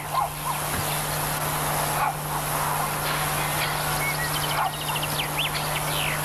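Small birds calling: scattered short chirps, then a quick run of rapid ticking notes and short rising and falling whistles about two-thirds of the way in, over a steady hiss and a low, even hum.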